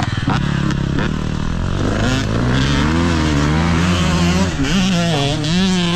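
Motocross bike engine revving hard, its pitch rising and falling several times as the rider goes on and off the throttle through corners.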